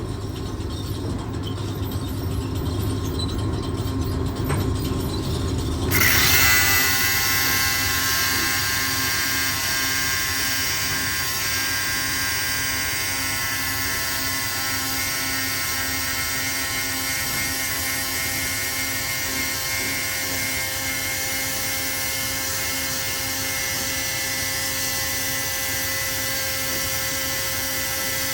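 Angle grinder with a cutoff wheel starts suddenly about six seconds in and runs with a steady whine, cutting off the nut of a grain-leg bucket bolt. A low rumble comes before it.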